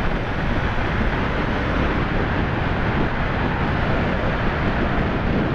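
Steady wind rush over the microphone from riding a Kawasaki Ninja 300 motorcycle at an even speed, with the bike's running noise blended in. There is a heavy low rumble and no distinct pitch or change.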